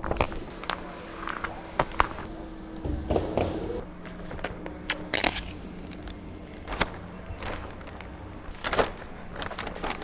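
Plastic shrink-wrap crackling and rustling in irregular sharp bursts as it is cut and pulled off a boat, over a faint steady hum.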